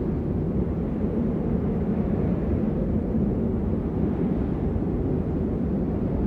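Steady rain, a dense, even low hiss with little high end and no distinct drops.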